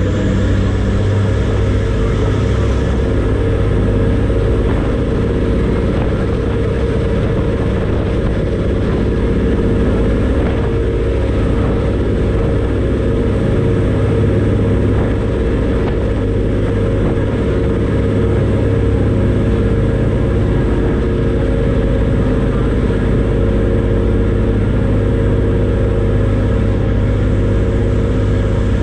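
Passenger ferry's diesel engines running at a steady cruise, a loud constant drone with a deep hum heard on board.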